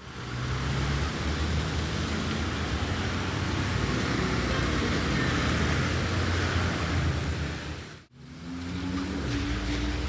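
City street traffic in the rain: car engines running under a steady hiss. About eight seconds in the sound cuts out abruptly, then returns with an engine whose pitch slowly climbs.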